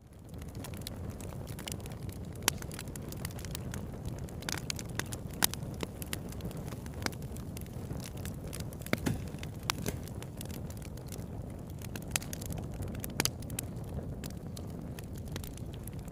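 Wood campfire burning: a steady low rush of flame with irregular sharp crackles and pops, a few louder snaps scattered through.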